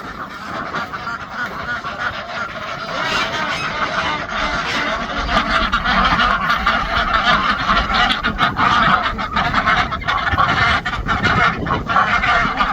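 A flock of domestic waterfowl, geese and ducks, calling all at once in a dense, overlapping chorus. It builds over the first few seconds and then stays loud.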